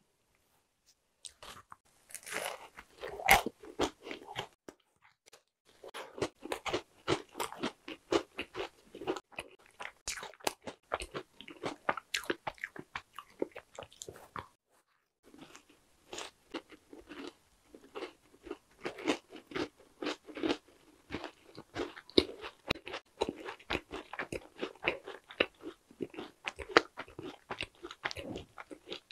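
Close-miked biting and chewing of a cheese-cracker macaron, with crisp crunching. One loud bite comes about three seconds in, then steady crunchy chewing with two short pauses.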